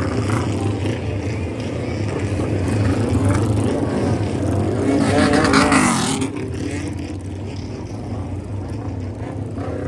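Suzuki GS400 parallel-twin motorcycle running through its exhaust at a steady idle, with a blip of the throttle about five seconds in that is the loudest part, revving up and dropping back to idle.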